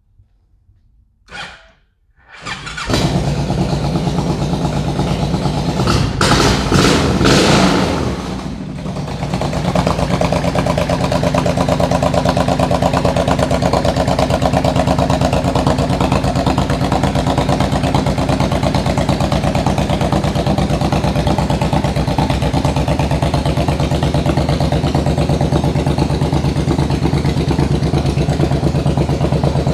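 Honda VTX1800R V-twin motorcycle engine started: a short burst, then it catches about two and a half seconds in. It is revved briefly a few seconds later, then settles into a steady idle.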